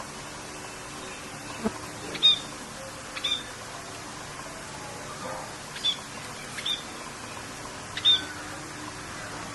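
A bird chirping over steady rain: about five short, sharp chirps, each a quick downward note, a second or two apart.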